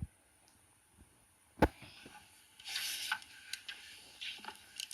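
A single sharp click about one and a half seconds in, followed by faint rustling and a few small clicks.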